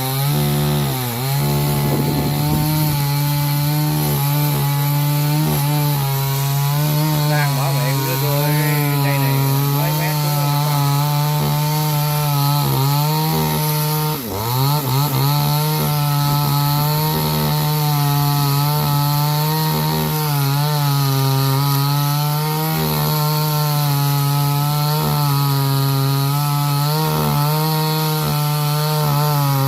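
Two-stroke chainsaw running at high revs, cutting into wood. Its pitch wavers as the load changes and dips sharply twice, about a second in and again about halfway through, before climbing back.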